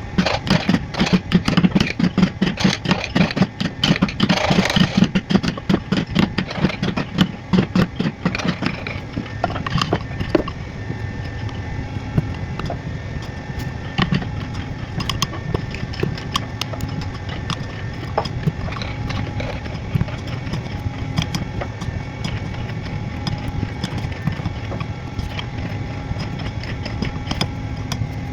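Wood carving: rapid, dense knocking of tools on wood for about the first nine seconds, then sparser clicks and taps over a steady mechanical hum.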